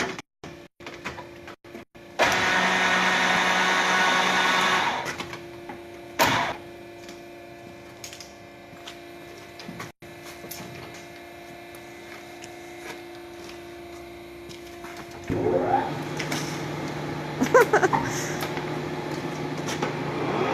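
Electric shop machinery running. A loud whirring motor runs for about two and a half seconds, then a steady lower hum continues, and near the end a motor spins up with a rising whine and settles to a steady pitch.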